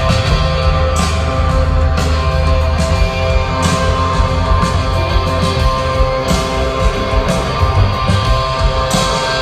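Live rock band playing loud: electric guitars holding steady chords over heavy bass and drums, with cymbal crashes now and then.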